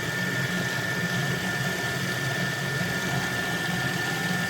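Electric food processor motor running steadily, grinding turkey into mince, with a low hum and a steady high whine after spinning up to speed.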